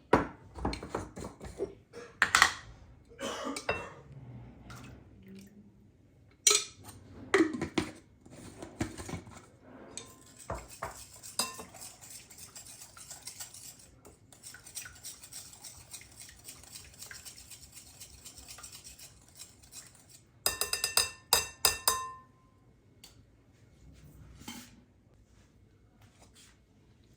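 Kitchen utensils and cookware clattering and clinking, with a softer steady hiss through the middle. Near the end comes a quick run of ringing metallic clinks, like a spoon tapped repeatedly against a pot or dish.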